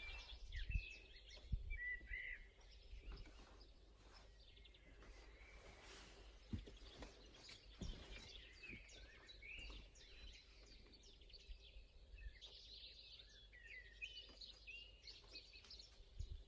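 Faint outdoor ambience of small songbirds chirping and twittering, with many short calls and phrases throughout over a low rumble, and a few brief low thumps in the first half.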